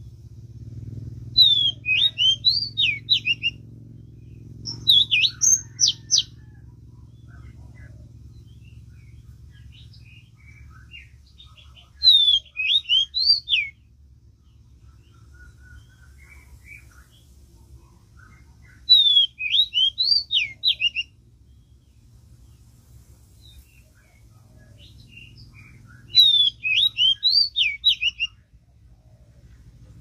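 Bird song: loud phrases of quick rising and falling whistles, coming in five bursts about every seven seconds, with faint chirps in between.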